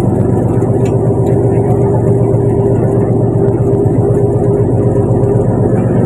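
A fishing boat's engine running steadily, a loud, even low drone with a constant pitch.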